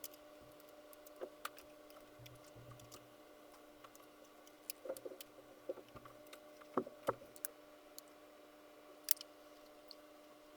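Scattered light clicks and taps of small plastic parts on an RC scale Jeep body being handled, the loudest about seven and nine seconds in, over a faint steady hum.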